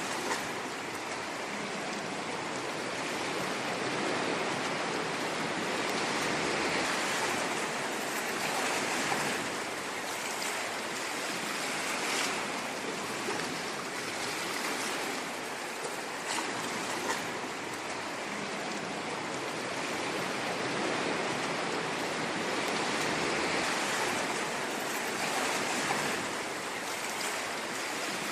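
Ocean waves washing on a shore: a steady rushing surf that swells and ebbs slowly every several seconds, with faint crackles of breaking water.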